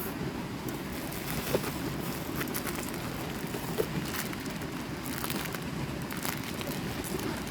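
Steady low rush of a flowing river, with scattered light crackles and ticks over it.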